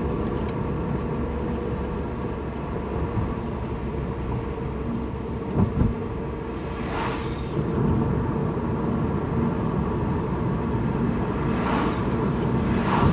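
Steady car engine and road noise heard from inside a moving car's cabin, with two brief louder whooshes about seven and twelve seconds in.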